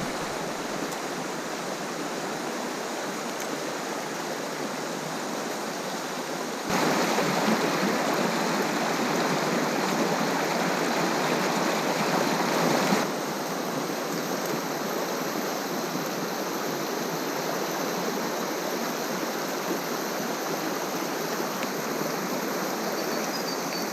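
River water rushing steadily; the rush jumps louder about seven seconds in and drops back about six seconds later.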